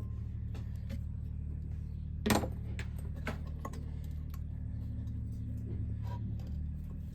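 Scattered light metallic clicks and taps of hand tools and small-engine parts being handled, with one louder clink about two seconds in, over a steady low hum.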